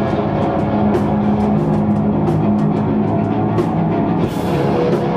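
An experimental metal band playing live: sustained low held notes under frequent, irregular drum and cymbal hits.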